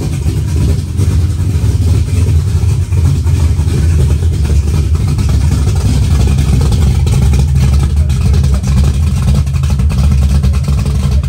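1981 Camaro's V8 engine idling, a steady low exhaust rumble.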